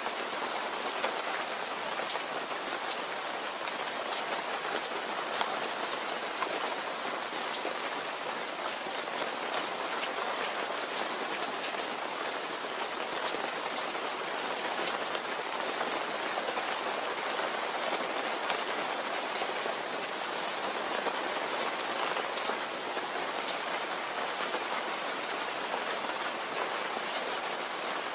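Steady rainfall, an even hiss with scattered individual drop ticks on a surface.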